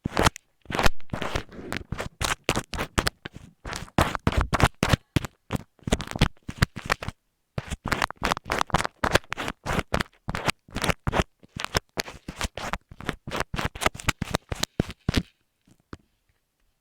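Close, dry scratching and rubbing strokes against an earphone microphone, coming quickly and irregularly. They pause briefly about seven seconds in and stop about a second before the end.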